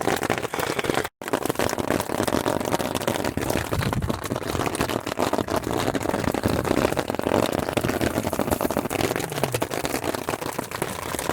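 Heavy, steady rain: a dense patter of drops. It cuts out completely for an instant about a second in.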